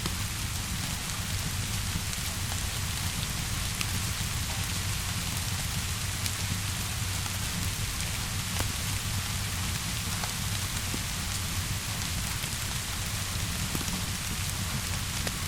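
Steady rainfall with a low rumble underneath, and scattered sharp crackles from a wood fire.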